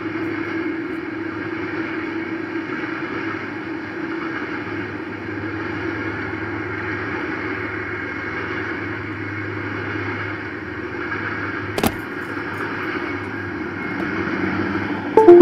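Train passing across the road: a steady rumbling noise with a low hum underneath, broken by one sharp click about twelve seconds in.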